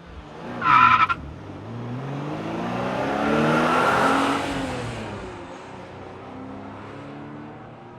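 A vehicle engine rising in pitch and growing louder, then falling away, after a short high squeal about a second in.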